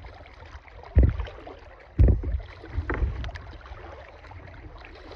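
Kayak paddling: a paddle dipping and pulling through the water, heard as low thumps and splashes about a second apart over a steady wash of water.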